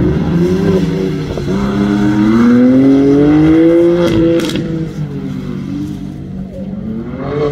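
BMW coupe's engine revving as it drifts on a wet track: its pitch climbs steadily for a couple of seconds to the loudest point, then falls away after a sharp crack about four seconds in. It runs quieter for a while and rises again near the end.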